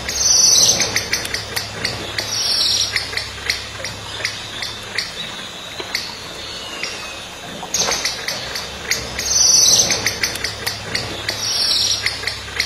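Birds calling: a steady run of sharp, high chirps, about three a second, with four louder calls that fall in pitch, two near the start and two near the end.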